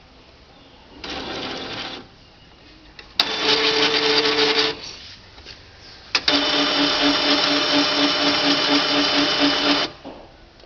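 Epson CX3700 inkjet printer's mechanism running in spells: a short whir, then a whine of about a second and a half, then a longer run of about three and a half seconds with a tone pulsing about four times a second. This is the print carriage and ink mechanism moving after the ink-change button is pressed.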